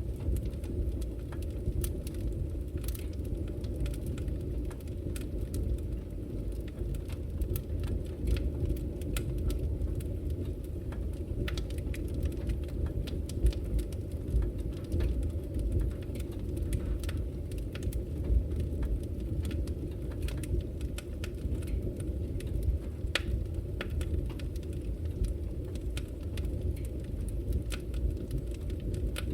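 Wood fire burning in a fireplace: a steady low rumble of flames with frequent small, irregular crackles and an occasional louder pop.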